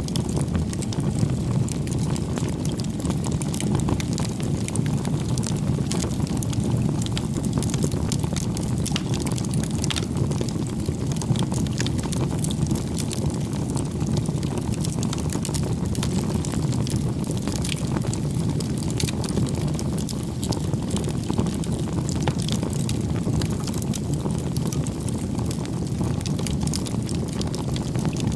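Campfire crackling, with many small sharp pops scattered over a steady low rumble.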